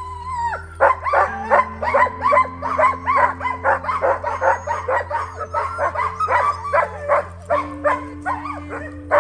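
A team of sled dogs barking and yipping excitedly, many quick overlapping barks, after a single drawn-out howl at the start, over background music with held low chords.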